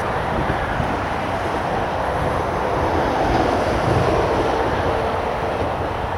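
Steady road traffic noise from a busy trunk-road bridge: a continuous wash of tyre and engine noise with no single vehicle standing out.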